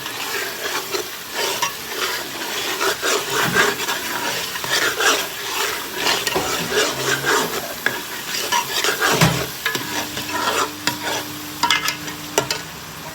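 A spoon stirring and scraping around a pot of food frying in oil, with a steady sizzle under irregular scrapes and clicks. There are a few sharper knocks near the end, then the sound drops.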